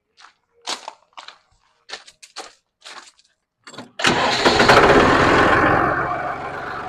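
A few short clicks and knocks, then about four seconds in the John Deere 5303's three-cylinder diesel engine starts and runs, loud at first and then settling lower.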